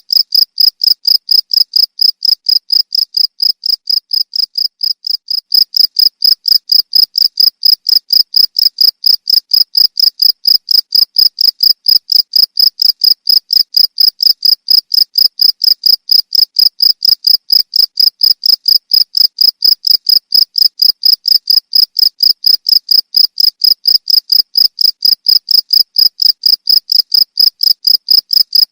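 Cricket chirping in a high, even pulse, about four chirps a second, briefly softer a few seconds in.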